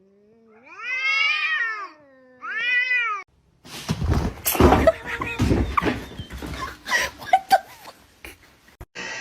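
A cat giving two long, drawn-out meows, the first about a second and a half long and the second shorter, each rising then falling in pitch. Then comes a busy stretch of sharp knocks and rustling, with short cries mixed in.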